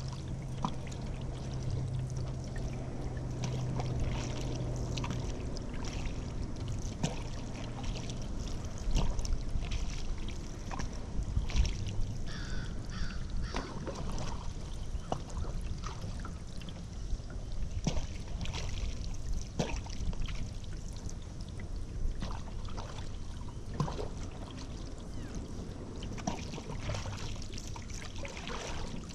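Kayak paddling: the paddle blades dip and pull through the water with steady splashing and water trickling off the blades, and frequent small knocks and clicks.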